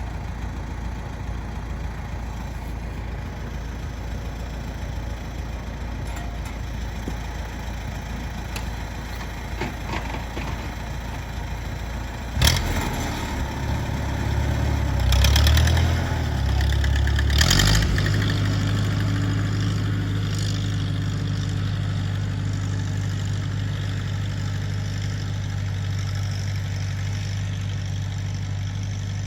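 Tractor engine starting about twelve seconds in after a low steady rumble, revving up unevenly for a few seconds, then settling into a steady idle.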